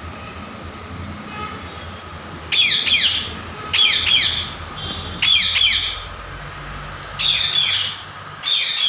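A parrot squawking five times in harsh, rapid calls, each about half a second long, starting a couple of seconds in, over a low steady hum.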